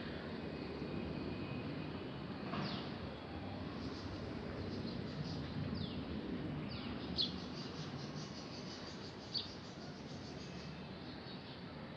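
Birds calling outdoors: several short, high chirps that sweep downward in pitch, scattered a second or two apart. Under them is a steady rushing background noise.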